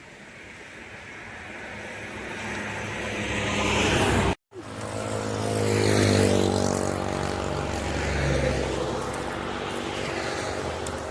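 A motor vehicle passing close by: its noise builds over about four seconds and breaks off abruptly for a moment. It then returns as an engine hum whose pitch slides down as it moves away.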